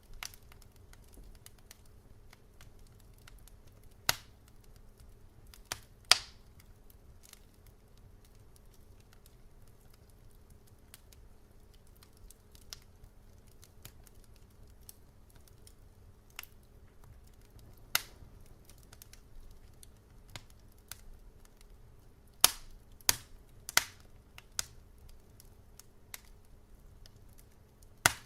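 Wood fire crackling in a fireplace: sharp, irregular pops and snaps over a low steady rumble, with a cluster of several loud pops a little past the middle.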